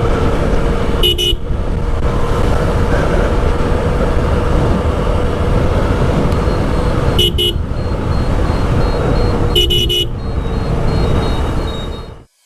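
Strong storm wind buffeting the microphone over a motorcycle riding on a highway, with short vehicle horn honks three times: about a second in, around seven seconds, and near ten seconds. The sound cuts off abruptly just before the end.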